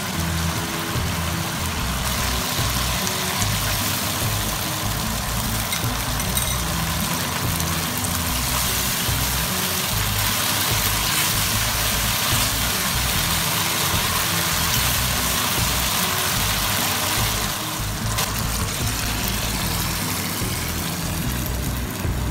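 Background music with a stepping low bass line over the sizzle of mapo tofu sauce reducing in a wok as a spatula stirs it. The sizzle thins out near the end.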